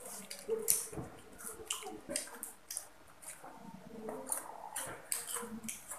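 Children eating crispy fried banana fritters: irregular crunching, chewing and wet mouth sounds.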